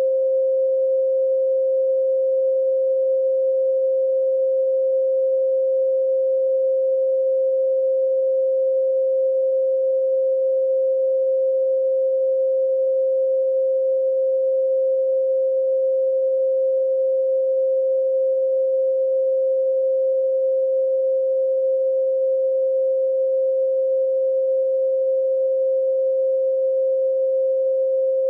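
A continuous 528 Hz sine tone held perfectly steady, a single pure pitch with no change.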